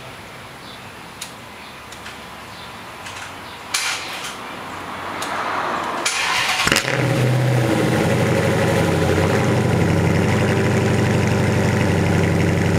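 Chrysler 300C SRT8's V8 with a custom-grind cam and SLP LM1 exhaust, started for the first time after a rebuild: a few clicks, then the starter cranks briefly about six seconds in and the engine catches and settles into a steady idle.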